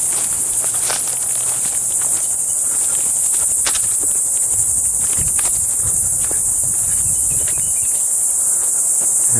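Insects chirring in a steady, high-pitched chorus that does not let up, with scattered footsteps and rustling as someone walks through brush.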